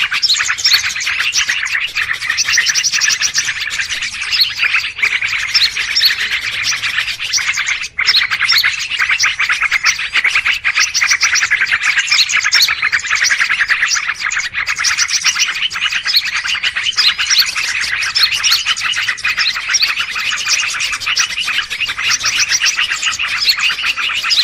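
Dense, noisy chorus of many small birds chirping and twittering at once, a bird-lure recording played to attract wild birds, with a momentary break about eight seconds in.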